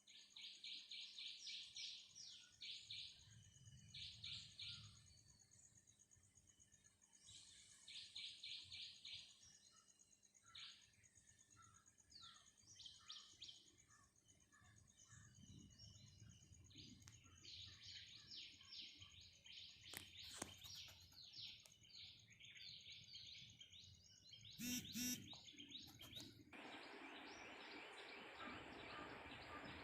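Small birds chirping in quick runs of high notes, one run after another. About 25 seconds in comes a brief louder call, and then a steady hiss sets in.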